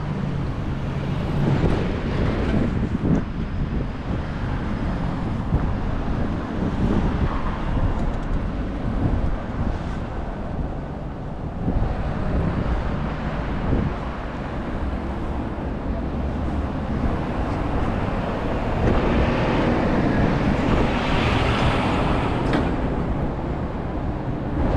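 Wind buffeting the microphone over city street traffic, with a louder, brighter rush of noise about three quarters of the way through.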